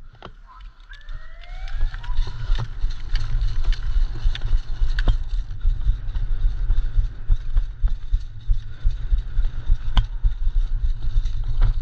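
Heavy, uneven rumble and knocking on a body-worn camera's microphone as the player moves forward, with a few sharp clicks scattered through it. The rumble builds about a second and a half in.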